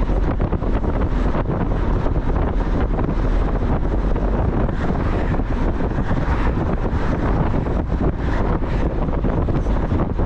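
Steady wind buffeting the microphone over the road and engine noise of a Mazda Miata on the move.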